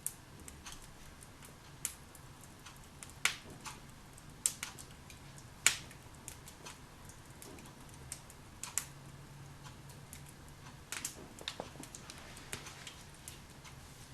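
Log fire crackling in a fireplace: irregular sharp pops and snaps over a faint steady hiss, the loudest pops coming about three, four and a half and six seconds in, with a quick cluster near eleven seconds.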